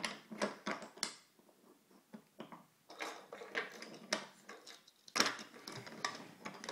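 Small plastic or wooden toy train pieces clicking and clattering as they are handled and set back on the track, in scattered light knocks with a busier patch about five seconds in.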